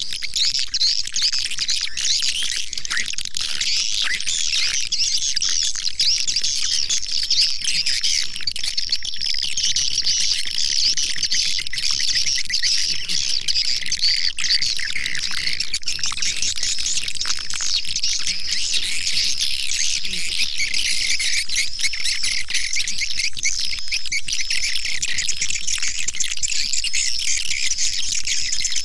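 Edible-nest swiftlet calls, a dense, unbroken mass of high twittering chirps, as played from a swiftlet-house call-sound track to lure passing swiftlets in.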